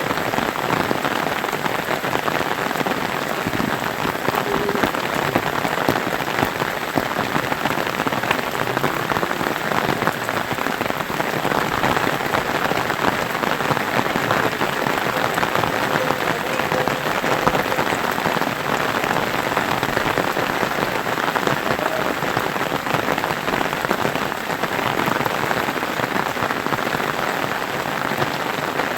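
Steady, heavy rain falling and pattering on surfaces, a dense even hiss of drops.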